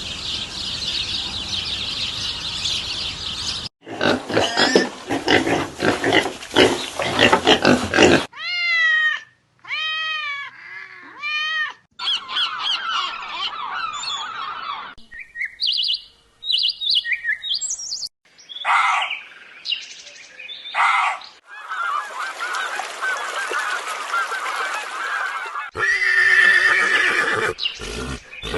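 A string of short animal recordings cut one after another, mostly bird calls, with a run of about five repeated arching calls about nine seconds in and scattered short chirps later on.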